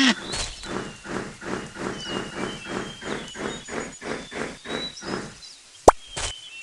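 Leopard's sawing call: a run of hoarse, rasping grunts, about three a second, that stops shortly before a sharp click near the end.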